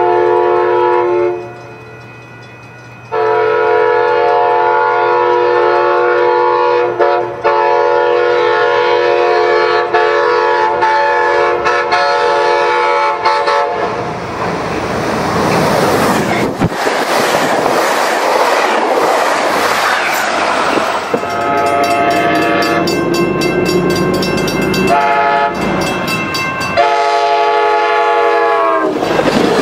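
Diesel passenger train sounding its air horn in long blasts of several notes at once, with a short break about two seconds in, then the train rushing past with rail clatter. Near the end a second horn blast drops in pitch as the train passes.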